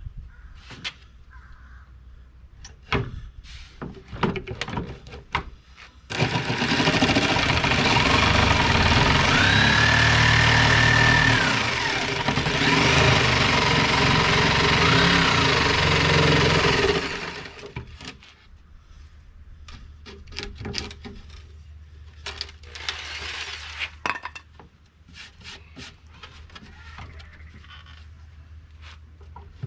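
Electric jigsaw cutting a curved line through plywood for about eleven seconds, with a short pause near the middle. Knocks and handling clatter come before and after the cut.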